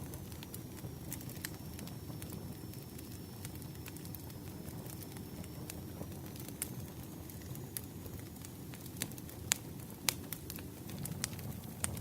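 Campfire crackling: a steady low rumble of burning wood with scattered sharp pops and snaps, two louder pops near the end.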